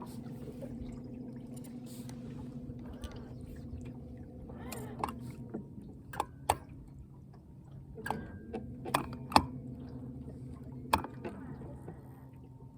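A steady low hum, likely an electric trolling motor, under water sloshing against a small fishing boat's hull, with a handful of sharp knocks in the second half.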